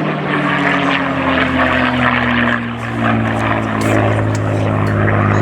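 Propeller-driven aircraft flying past, its engine note dropping slowly in pitch.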